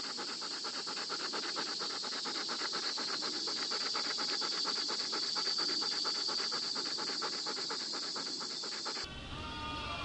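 Dogs panting rapidly and evenly, about six breaths a second. Near the end this cuts to goats bleating.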